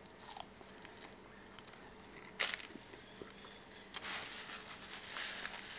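Faint chewing of a mouthful of baked pastry, with a single sharp click about two and a half seconds in and louder bursts of chewing in the last couple of seconds.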